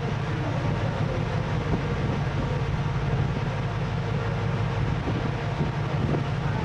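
Steady low drone of a ship underway, heard on board: a constant engine hum under an even rushing noise.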